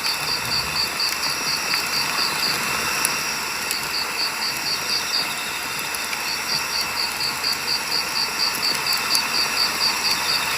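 A wood campfire burning with a steady hiss and a few sharp crackles. Insects, likely crickets, chirp alongside in quick, evenly spaced high pulses, about five a second, in strings with short pauses between them.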